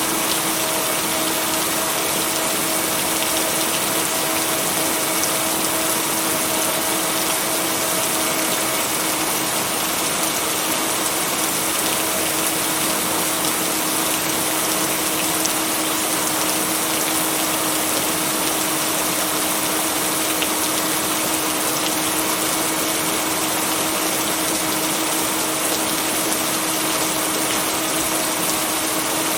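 Steady rain falling in an even hiss, with a constant low hum of two steady tones from blended binaural beats beneath it.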